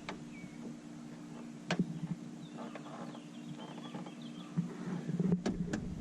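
Sharp clicks and small knocks of car parts being handled and fitted during reassembly: one click at the start, another just under two seconds in, scattered light ticks in the middle, and two clicks near the end, over a steady low hum.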